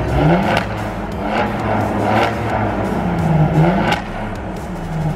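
Saab 9-3 Turbo X's turbocharged V6 accelerating hard, its engine note climbing in pitch several times over, with a few sharp cracks.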